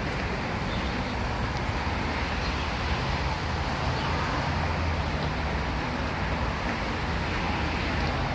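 Steady traffic noise with a low engine rumble.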